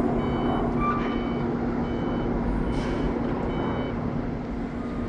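Short electronic beeps, a few at uneven intervals, over a steady low rumble, with a brief hiss about three seconds in.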